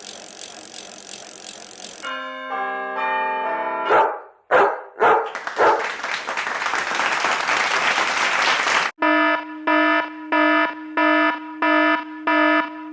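A run of stock sound effects one after another: a hiss, a couple of seconds of held electronic tones, a few quick whooshing swells and a noisy rushing stretch, then a harsh electric buzzer beeping just under twice a second from about nine seconds in.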